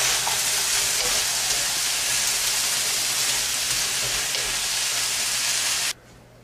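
Vegetables sizzling steadily as they stir-fry in a stainless steel wok over a gas flame. The sizzle cuts off suddenly near the end.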